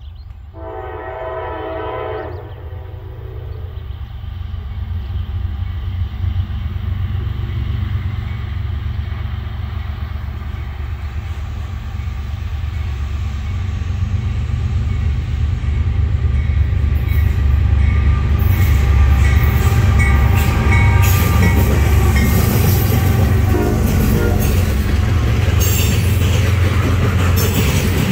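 A Norfolk Southern diesel freight train sounds one horn blast of about two seconds near the start. The low rumble of its locomotives then builds as it approaches and passes, and over the last part the wheels of loaded trash container cars clatter and click over the rails.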